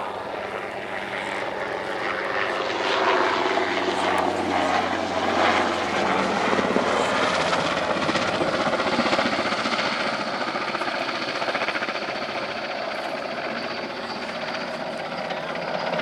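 NH90 helicopter in display flight: twin turbine engines and rotor blades. The sound grows louder, its pitch drops as the helicopter passes, and it then eases off a little.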